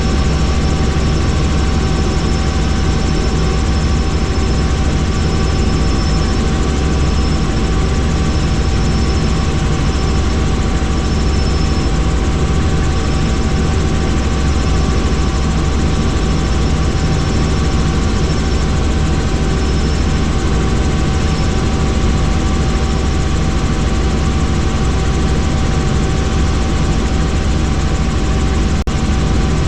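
Helicopter in flight: a steady engine and rotor drone with a constant high whine running through it. A brief click comes near the end.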